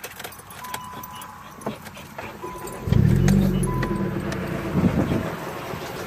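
Nissan Sentra SE-R Spec V's 2.5-litre four-cylinder being started: a dashboard warning chime beeps three times with small key clicks, then the engine catches about three seconds in with a loud burst that settles into a steady idle.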